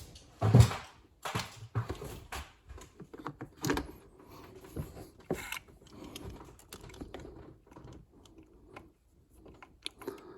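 Metal hand tools and driver bits clinking and rattling as a toolbox is rummaged through: a run of irregular clicks and knocks, the loudest about half a second in.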